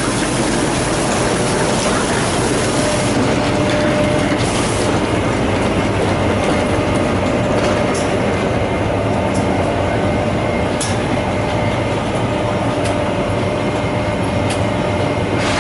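Steady hum and whir of a TGV inOui high-speed train standing at the platform, with a faint steady tone and a few light clicks.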